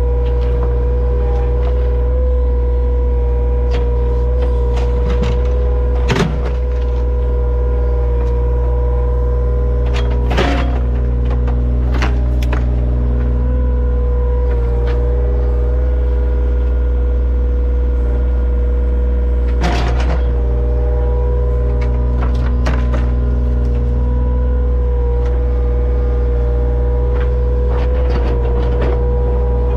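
An engine running steadily at a constant speed, with a few sharp knocks or clanks over it, the strongest about six seconds in and another about ten seconds in.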